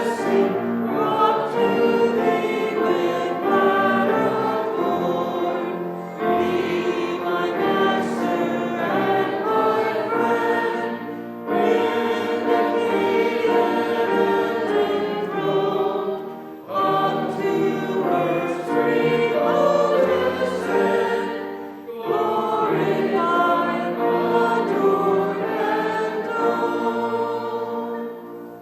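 Congregation singing a hymn with instrumental accompaniment, in phrases of about five seconds with short breaths between them. The last phrase fades out near the end.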